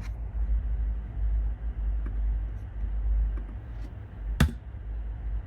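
Steady low background rumble, with a single sharp click about four seconds in.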